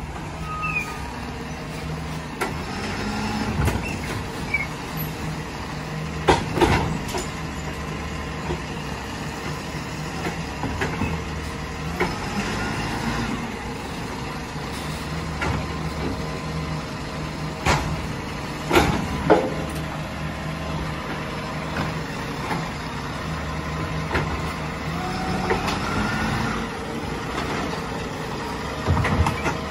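Rubbish truck engine running steadily, with several sharp clanks: one about six seconds in, a cluster of three a little past halfway, and one near the end.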